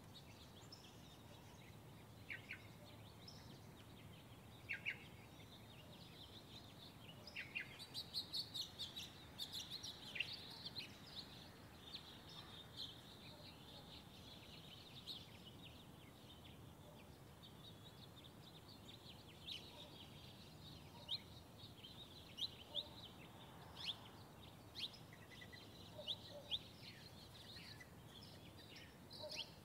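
Birds chirping: scattered short, high chirps over a faint steady background, with a quick run of them about eight to eleven seconds in.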